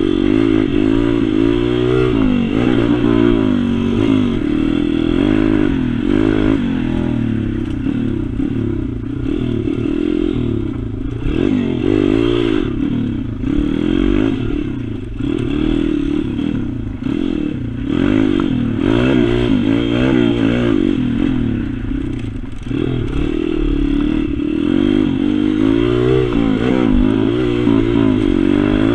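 Pit bike engine revving up and falling back over and over as the bike is ridden around a track, its pitch climbing and dropping every second or two.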